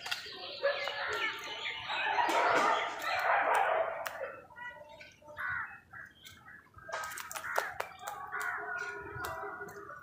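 Birds calling, with a loud burst of overlapping calls about two to four seconds in, and many short sharp taps and clicks throughout.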